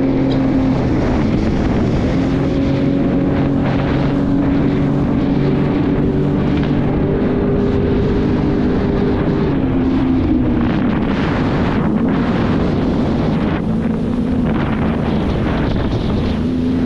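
Jet ski engine running steadily at speed, its pitch wavering slightly, with wind buffeting the microphone.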